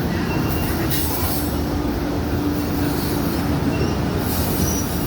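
Passenger train running on the rails: a steady rolling rumble and hiss, with a wheel squeal held for about three seconds from just after the start.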